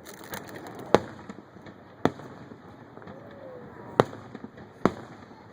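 Aerial fireworks shells bursting: four sharp bangs, irregularly spaced, the ones about one and four seconds in the loudest.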